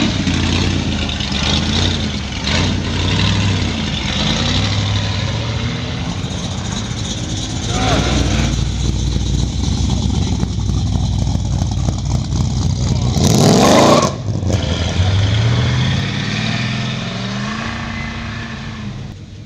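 Car engines running and revving as cars pull away one after another. The pitch rises about 8 seconds in, again in a loud rev near 14 seconds, and once more near the end.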